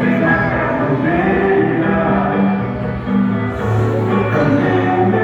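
Live music: a band playing a slow song with voices singing held notes over a steady bass line.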